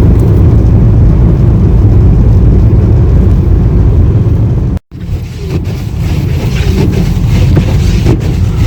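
Steady road and engine noise inside a moving car's cabin. About halfway through it cuts out abruptly for a moment, then carries on quieter with scattered clicks.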